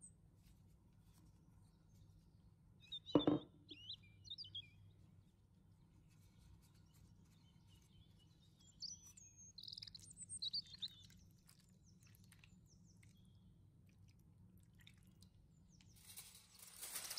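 Faint, scattered bird chirps with one sharp knock about three seconds in. Near the end, tomato sauce poured from a jug over vegetables in a baking tray makes a splashing hiss.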